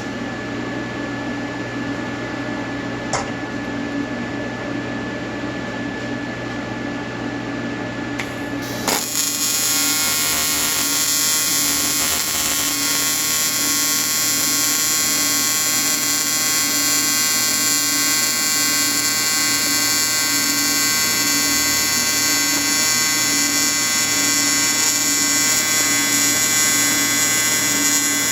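Low workshop hum, then about nine seconds in a TIG welding arc strikes and holds a steady, high-pitched electric buzz.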